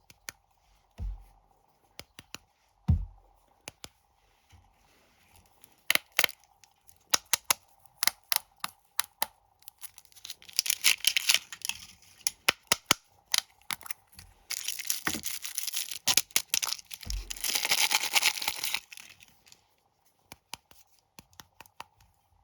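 Plastic snack wrappers being torn open and crinkled by hand: scattered crackles that build into two longer stretches of dense crinkling in the second half, with a few soft thumps of the packets being handled.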